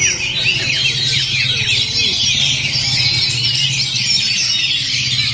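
Several oriental magpie-robins singing at once in a dense, overlapping chorus of fast chirps, trills and short whistles, with a steady low hum underneath.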